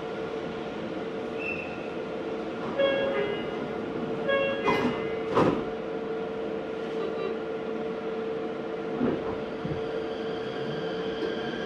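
Meitetsu 4000 series electric train heard from on board: a steady electrical hum with rail noise and two sharp knocks around the middle. Near the end a motor whine starts to rise in pitch as the train picks up speed.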